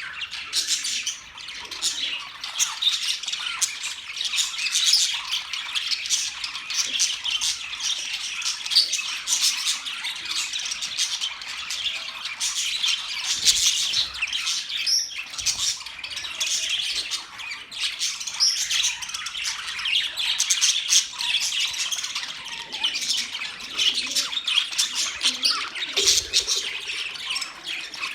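A flock of budgerigars (budgies) chattering, with constant overlapping chirps and squawks.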